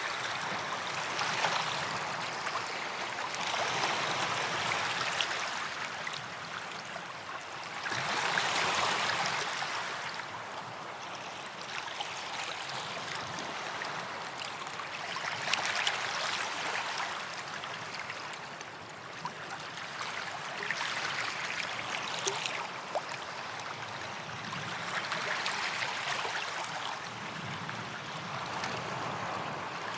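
Small sea waves washing onto a sandy beach: a soft rush of surf that swells and falls back every few seconds, with light fizzing and trickling as the water runs over the sand.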